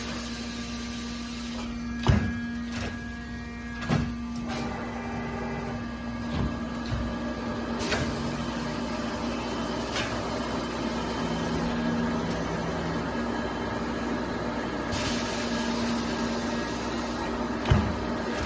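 Richpeace two-beam, double-head automatic sewing machine running, with a steady machine hum. There are a few sharp knocks and two spells of hissing, each about two seconds long, one at the start and one about 15 seconds in.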